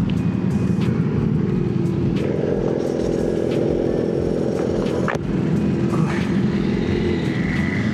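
Motorcycle engine running steadily while riding, with road noise. The engine note gets louder and higher about two seconds in and eases back about five seconds in.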